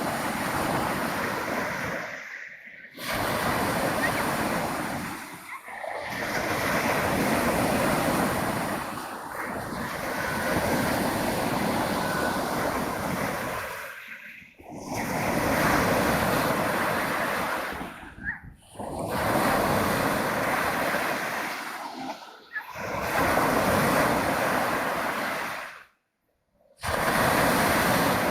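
Black Sea waves breaking and washing on the shore, with wind buffeting the microphone. The noise swells and falls away in short dips every few seconds, and cuts out completely for about a second near the end.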